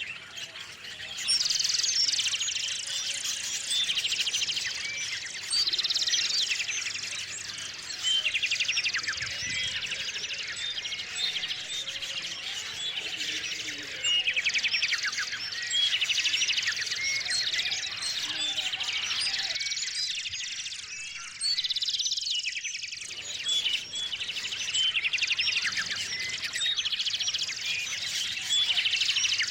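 Small songbirds chirping and singing, with short high trilled phrases repeating every couple of seconds over a steady scatter of chirps.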